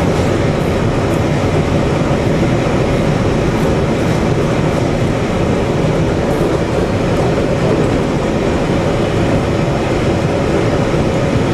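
JR Hokkaido train running along the track, a steady rumble of wheels on rails heard from on board.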